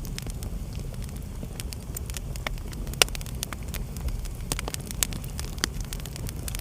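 Wood fire burning in a fireplace: irregular sharp crackles and pops over a steady low rumble of the flames, with one louder pop about three seconds in.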